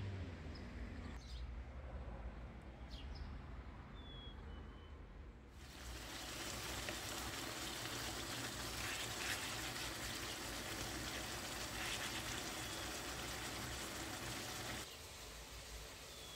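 A few short bird chirps, then, about five seconds in, the hiss of sliced chicken breast sizzling as it fries in a pan. The sizzle drops to a quieter hiss near the end.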